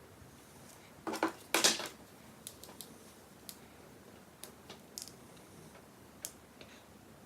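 Handling sounds from hair being styled: two short, louder rustling scrapes about a second in, then scattered light clicks and rustles.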